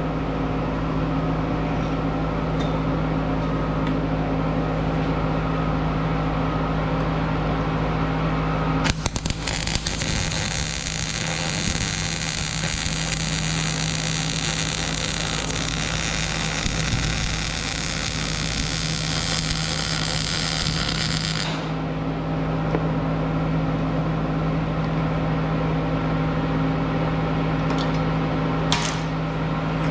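Welder's steady electrical hum, with about twelve seconds of welding arc crackle and hiss starting about nine seconds in, as a worn-through snowblower skid is built up with weld. A short sharp click near the end.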